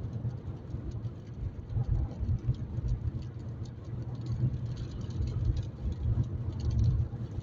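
Car cabin road noise while driving: a steady low rumble of engine and tyres, with faint scattered ticks of light rain hitting the windscreen.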